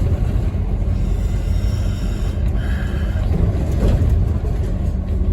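Scania N230UD OmniCity double-decker bus on the move, heard from inside: a steady low rumble of the engine and road noise, with a brief faint high tone about three seconds in.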